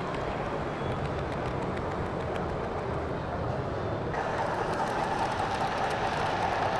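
HO scale model train running on the layout, a steady rolling noise that gets louder and brighter about four seconds in.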